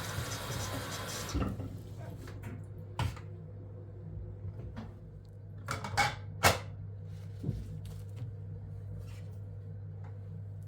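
Household handling sounds: a steady rushing noise that cuts off suddenly about a second and a half in, then scattered sharp knocks and clacks like cupboards and dishes being handled, the loudest two about six seconds in, over a steady low hum.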